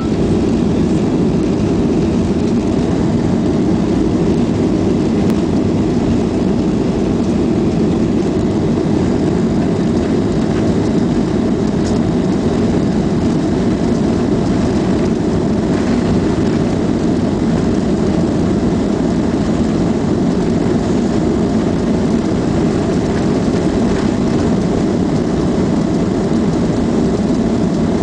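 Steady low rumble and rush of a Boeing 737-800's jet engines and airflow, heard inside the passenger cabin, unchanging in level.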